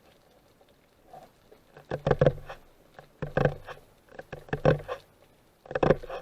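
Four short clusters of clicks and knocks with low thuds, about a second and a quarter apart, recorded underwater.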